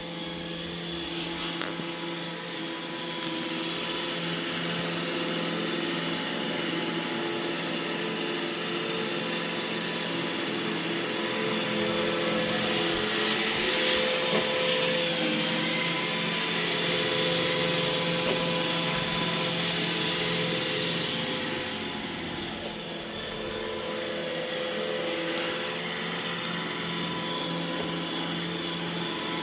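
iRobot Roomba E6 robot vacuum running, a steady motor whine with the hiss of its suction and brushes. It grows louder for several seconds around the middle, then eases back.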